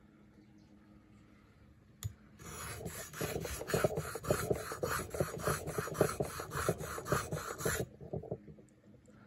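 Leatherman PST multitool blade being sharpened on a sharpening stone: a light click about two seconds in, then rapid back-and-forth grinding strokes, about four a second, for roughly five seconds.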